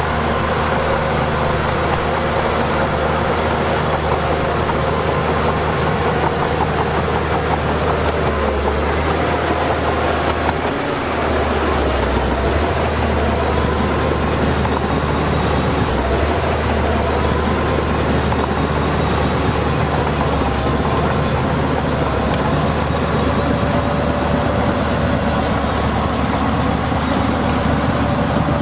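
Heavy diesel earthmoving machinery running steadily under load, its engine note wavering a little, with a brief dip about eleven seconds in.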